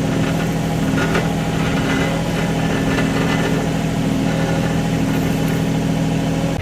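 Small CAT excavator's diesel engine running steadily under work, with a few knocks about one, two and three seconds in.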